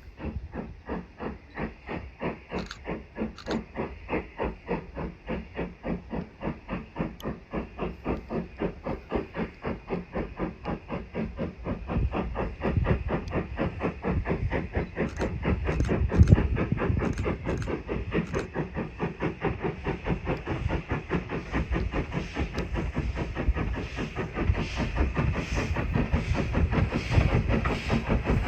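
Steam locomotive working under steam: regular exhaust beats, about three a second, over a steady hiss, growing louder a little before halfway.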